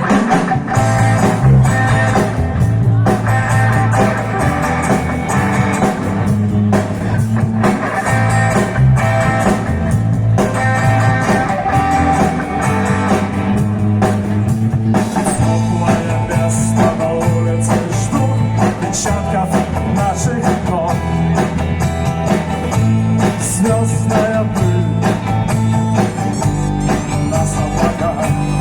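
Live band playing an instrumental passage with guitars, bass and drums over a steady beat.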